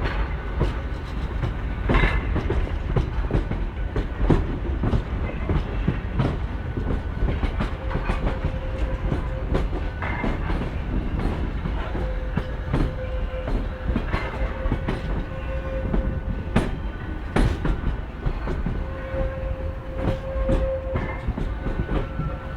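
Metro transfer train rolling over depot yard tracks: wheels clacking irregularly over rail joints and points over a steady low rumble, with a steady whine-like tone that comes and goes.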